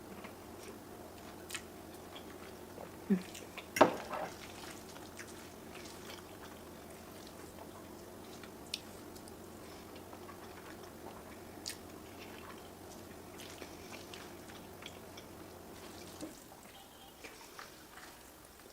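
Quiet close-up eating sounds: scattered small mouth clicks and smacks, with a louder sharp clack about four seconds in. A steady low hum runs underneath and stops about sixteen seconds in.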